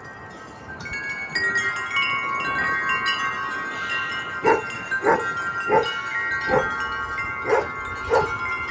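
Metal wind chimes ringing in gusty wind, several tuned tones overlapping and sustaining, swelling in about a second in. From about halfway through, six short sharp sounds cut through, spaced a little over half a second apart.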